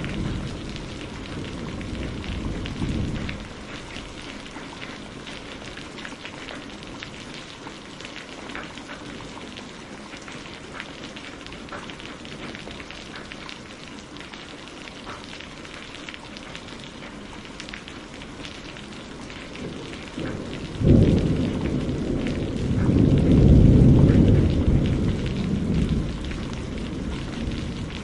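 Steady rain falling on a greenhouse roof, with many distinct drips. A low roll of thunder fades out in the first few seconds; about three quarters of the way through, a sudden thunderclap sets off a long rumble that swells and then dies away.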